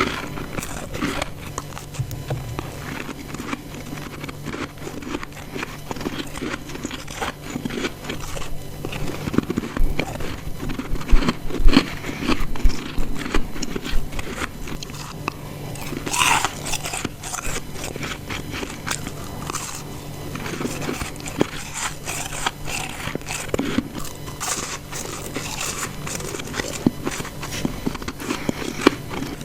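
Close-up biting and chewing of hard ice chunks: dense, irregular crisp crunches and crackles one after another, with the loudest bites a third of the way through.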